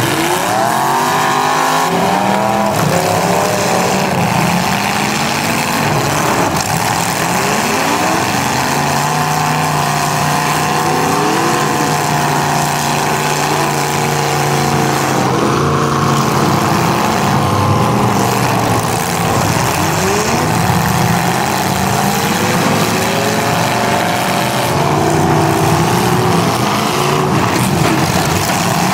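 Several demolition derby cars' engines running and revving at once, their pitches rising and falling over one another under a steady, loud noise bed.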